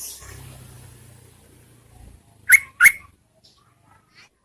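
Yellow-vented bulbul giving two short, sharp call notes in quick succession about two and a half seconds in, each sweeping slightly upward. This is a female lure call meant to draw males to answer. A soft rustling hiss comes in at the start.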